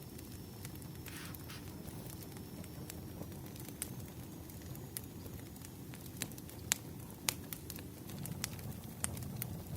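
Firewood burning: a steady low rumble of flame with scattered sharp crackles and pops, more frequent in the second half.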